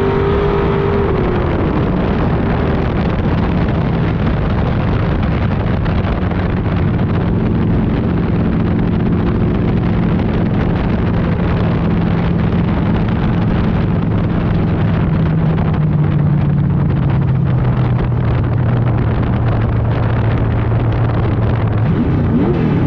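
Street stock race car engine running under a heavy rumble. Its revs drop about a second in, then keep easing slowly lower.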